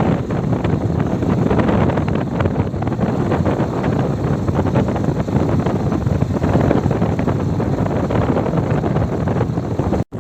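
Wind rushing and buffeting over the microphone of a moving bike, a steady heavy rumble with road noise beneath it. It cuts out for an instant near the end.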